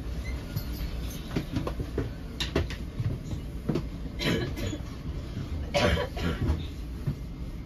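Steady running rumble of an NJ Transit Multilevel passenger coach heard from inside, with scattered clicks from the wheels and track. Two louder sudden bursts come about four and six seconds in.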